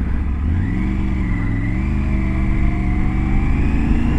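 Motorcycle engine under steady acceleration, its pitch climbing gradually from about half a second in, over a heavy low rumble of wind on the microphone.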